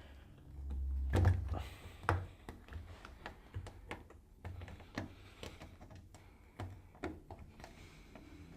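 Scattered knocks, taps and rubbing as the rubber door seal of a front-loading washing machine is stretched and folded over the edge of the metal front panel, with a low rumble and the loudest thump about a second in.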